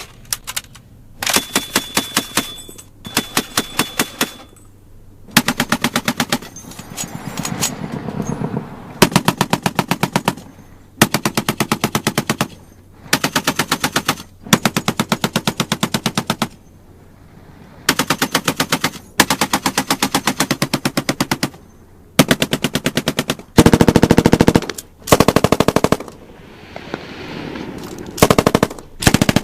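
Automatic gunfire: many short bursts of rapid machine-gun fire, each lasting about one to two seconds, with brief pauses between them. Some bursts ring out with an echo.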